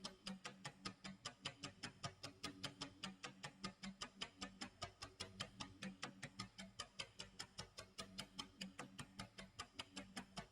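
Clock tick-tock sound effect: fast, even ticking with a low tone pulsing beneath it.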